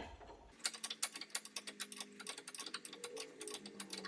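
Ratchet wrench clicking rapidly and unevenly as a nylon lock nut on the upper suspension joint is backed off. The clicks start about half a second in.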